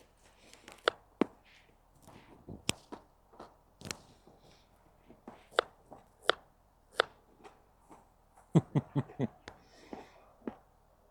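Munching on bread close to the microphone: irregular sharp crunches and clicks, with a quick run of about five near the end.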